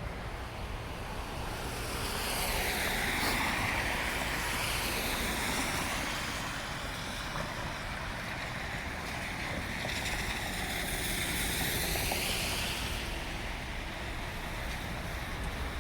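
Street traffic in a snowstorm: car tyres hissing on the snowy road, swelling twice as vehicles pass, over a steady rumble of wind on the microphone.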